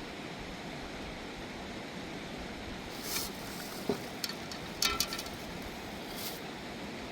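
Steady rush of a mountain river's flowing water, with a few brief clicks and scrapes around the middle.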